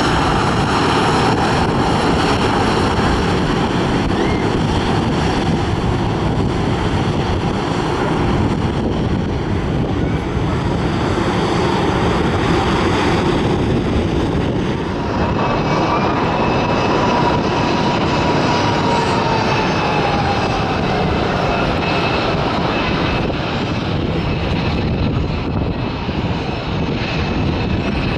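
Jet airliner engines running close by: a loud, steady roar with high whining fan tones. In the second half a whine bends down in pitch as the aircraft moves past.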